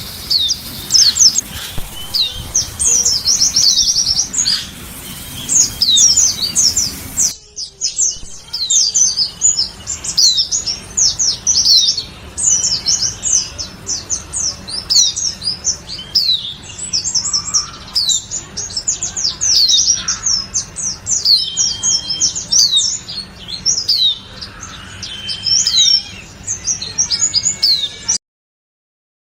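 Pleci (white-eye) singing a fast, continuous chatter of high chirps and quick falling notes. About seven seconds in, the recording cuts to another stretch of the same kind of song, which stops abruptly near the end.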